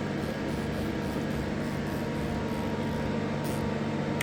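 Mori Seiki DL-20 CNC lathe switched on and standing idle, its motors and auxiliary units giving a steady, even hum with a low tone.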